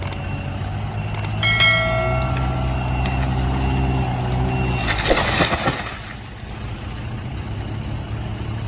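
A vehicle engine running steadily, likely a car pulling a tree down on a rope. About a second and a half in there is a brief high pitched tone, and about five seconds in a short burst of rushing, crackling noise.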